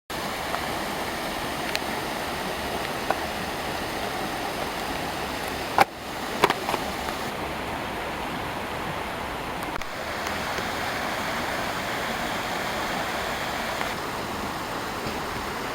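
Steady rushing of running water, like a stream, with a few short sharp clicks about six seconds in.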